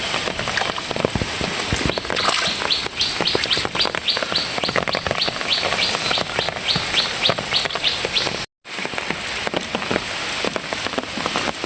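Steady rain falling, full of small drop clicks, with a bird chirping rapidly about four times a second from about two seconds in until about eight seconds. The sound cuts out completely for a moment near the end.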